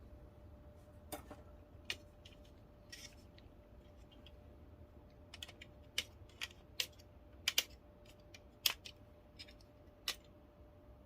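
Scattered light clicks and taps at irregular spacing, like small hard plastic parts being handled, with most of them in the second half.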